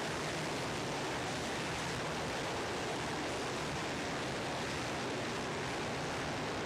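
Steady wash of engine noise from four-stroke motocross bikes running around the track, with no single bike standing out.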